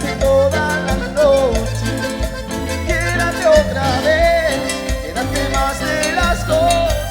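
Live band playing an instrumental passage of Latin dance music: a melodic lead line over a steady bass and drum beat.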